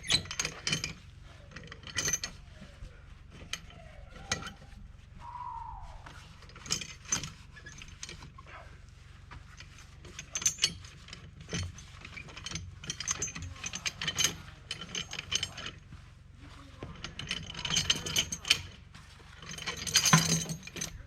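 Irregular bursts of metallic clicking and clanking from hand work on steel skid-steer traction track chain and ratchet tools, with a brief squeak about five seconds in and the densest run of clicks near the end.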